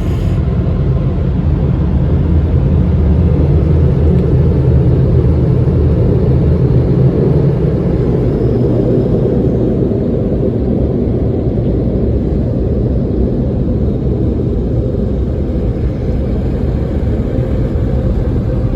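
Car wash air dryers blowing, a loud, steady rush of air heard from inside the car as it passes under them.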